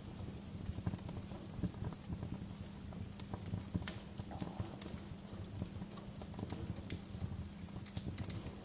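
Wood fire crackling in a fireplace: frequent irregular sharp snaps and pops over a steady low rumble.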